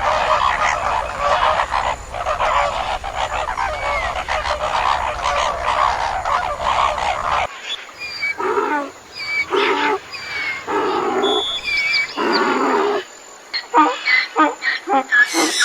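Animals calling: a dense chorus of many overlapping calls for about seven seconds, then a sudden change to a series of separate, shorter calls with a few higher chirps among them.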